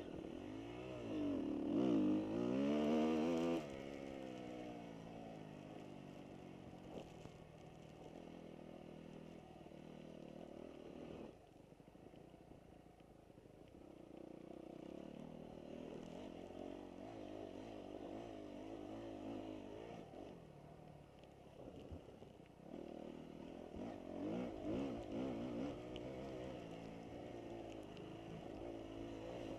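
Motocross dirt bike engines revving and shifting, their pitch rising and falling as they ride the track. One bike is loud and close about two seconds in, others run further off through the middle, and bikes come close again near the end.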